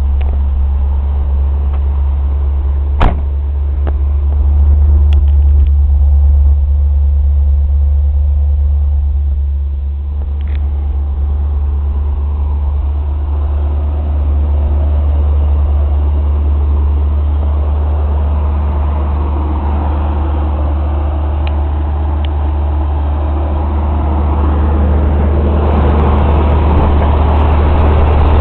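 1984 Chevy Scottsdale's 305 (5.0-litre) V8 with a four-barrel Rochester Quadrajet carburetor running at a steady idle while warming up from a cold start. A single sharp click comes about three seconds in, and the engine gets slightly louder a few seconds later.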